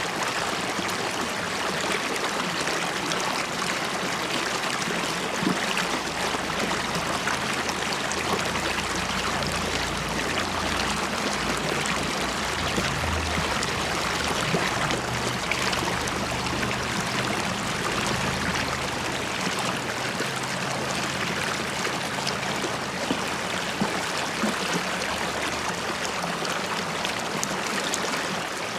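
River water running and bubbling over rocks, a steady babbling with a low rumble underneath through the middle.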